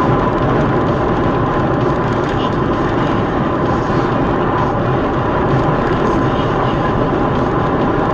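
Steady, loud running noise of a moving vehicle: engine and road rumble with a thin, steady whine through it.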